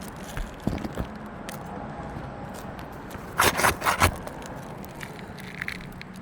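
Aged asphalt roof shingle being pried up from its nails: scraping and crackling, with a quick run of sharp, loud cracks about three and a half seconds in as it rips. The shingles have little to no pliability left.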